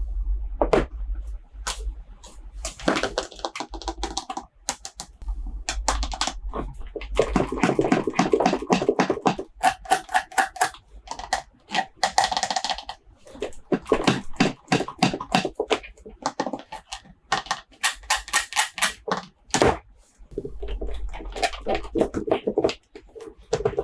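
Toy unboxing handling sounds: many sharp clicks and taps of hard plastic, with stretches of rustling packaging in between.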